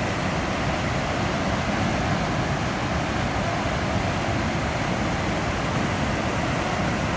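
Heavy floodwater rushing steadily as it is discharged into a river, a constant even roar.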